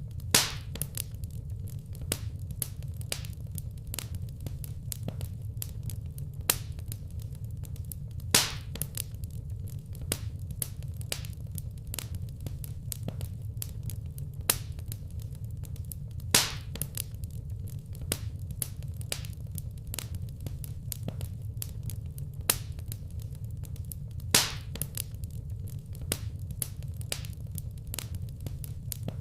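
Wood fire crackling in a brick fireplace: frequent small crackles over a steady low rumble, with a louder pop about every eight seconds.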